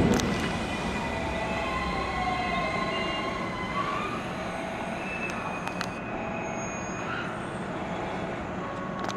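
Tambaji Rapid electric train slowing as it pulls into the platform, with a low rumble, high whining tones from the wheels and motors, and one tone falling in pitch about two seconds in.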